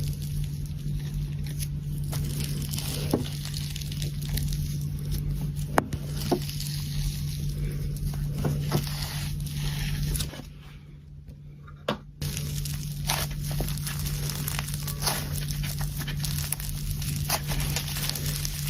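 Slime being squished and worked by hand, with wet crackling and frequent small sharp pops and clicks over a steady low hum. The sound drops out for about two seconds around ten seconds in, then resumes.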